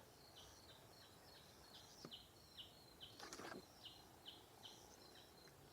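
Faint forest frogs calling: a steady run of short, high chirps, about three a second. There is a brief rustle about three seconds in.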